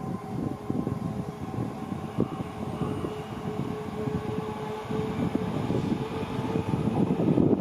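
Train running past: a steady low rumble with many short knocks of wheels over the rail, and a steady mid-pitched whine held throughout.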